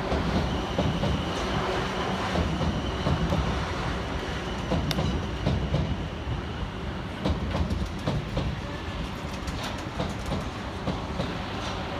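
Pair of Class 444 electric multiple units running into the platform, wheels clicking over rail joints over a steady rumble. A thin high whine sounds for the first few seconds.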